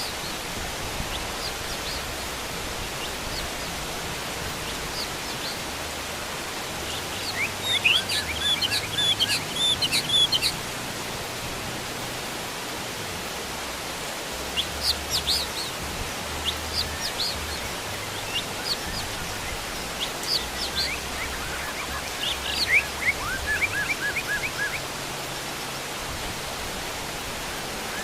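Steady heavy rain falling, with wild birds calling over it in three bursts of quick chirps and trills, near the start of the second third, in the middle, and toward the end.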